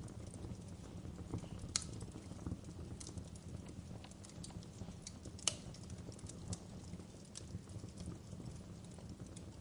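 Wood fire crackling in a fireplace: irregular sharp pops and snaps over a low steady rumble, with two louder pops, one a couple of seconds in and one a little past the middle.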